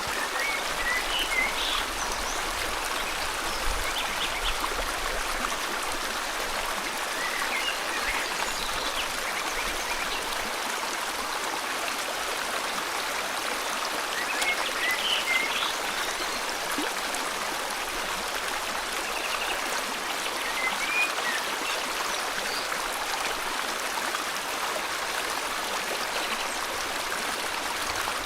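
A river flowing steadily, with a few short bird chirps over it now and then.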